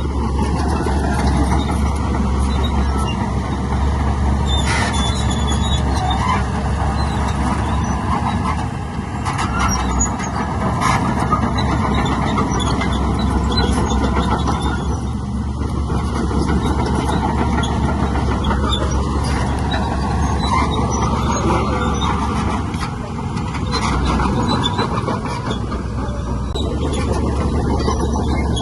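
Heavy diesel earthmoving machinery running steadily, with a few sharp knocks heard over the engine noise.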